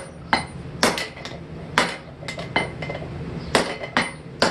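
Hand hammer blows on a hot steel hammer head being forged on an anvil. The blows are unevenly spaced, about two a second, each with a short metallic ring.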